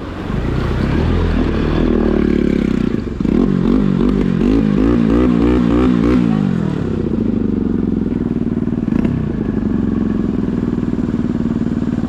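Bajaj Pulsar NS200 single-cylinder motorcycle engine running while being ridden, its note wavering quickly up and down for a few seconds in the middle before settling steady.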